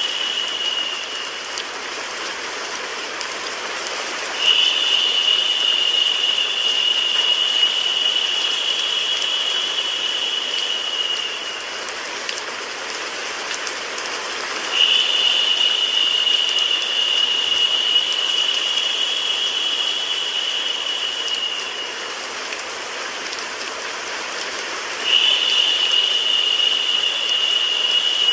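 Steady rain sound mixed with white noise, an even hiss. A brighter, higher hiss swells in abruptly for about seven seconds and then drops away, returning at evenly spaced intervals of about ten seconds.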